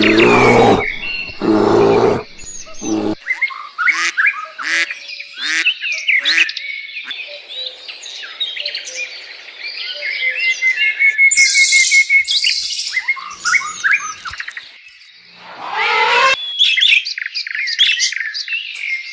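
Peafowl giving loud, harsh calls, twice at the start, once more briefly after a moment and again about 16 seconds in, with other birds chirping and whistling quickly between them.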